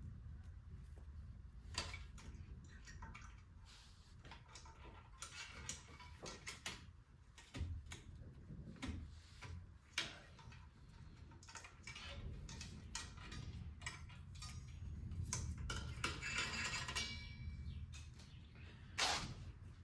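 Scattered metallic clicks and clinks of hand tools and steel brake parts being handled while fitting rear drum brake shoes, with a short jingling rattle and then a sharp knock near the end.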